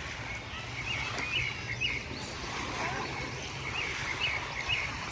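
Steady wash of beach noise from sea and wind, with two runs of three short, high chirping calls.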